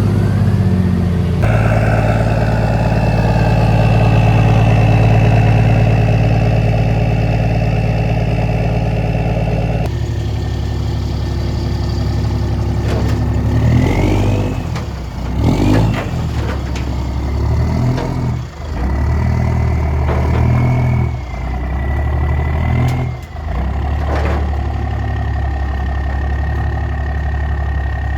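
Diesel pickup truck engine idling steadily after starting, then blipped up and down several times about halfway through, with a whistle rising and falling along with each rev.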